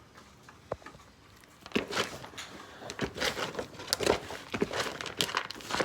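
Handling noises, rustling with a quick string of clicks and knocks starting about two seconds in, as cat food is set out.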